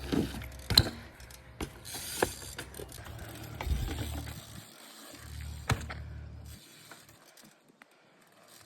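BMX bike's freewheel hub clicking as the bike coasts, with a few sharp knocks along the way, then quieter near the end.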